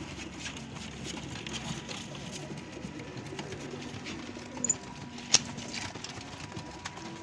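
Domestic pigeons cooing, low and repeated, with a sharp click about five seconds in.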